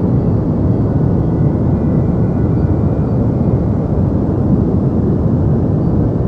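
Deep synthetic white noise for sleep: a steady, unchanging hiss weighted toward the low end, with a rumbling quality.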